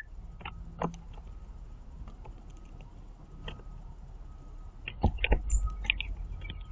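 Blue jays pecking and hopping on a platform bird feeder: scattered sharp taps and clicks of beaks and feet on the feeder and seed, thickening into a quick flurry about five seconds in.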